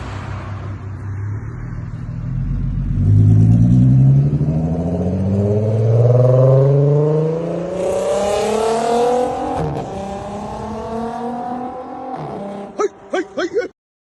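Volkswagen Golf GTI's swapped-in Passat R36 3.6-litre VR6 engine accelerating hard, its pitch climbing in several steps as the DSG gearbox shifts up. Near the end come four short, loud exhaust blats in quick succession, then the sound cuts off suddenly.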